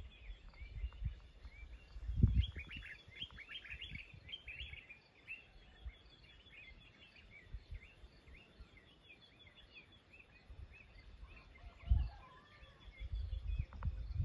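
Several wild birds chirping and calling in quick short notes, busiest in the first few seconds and sparser later, over a faint steady high buzz. Low rumbles come about two seconds in and again near the end.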